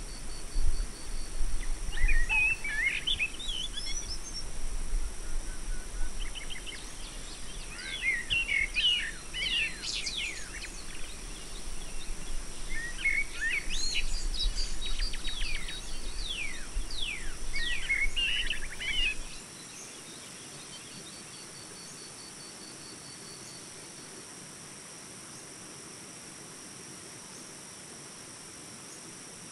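Birds chirping and singing in quick clusters over a steady high-pitched hum. A low rumble underneath stops suddenly about two-thirds of the way through.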